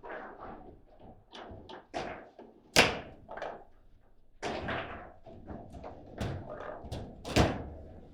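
Table football ball being struck by the rod figures and knocking off the table walls: irregular clacks and thuds, with two loud hard hits, one about three seconds in and one near the end.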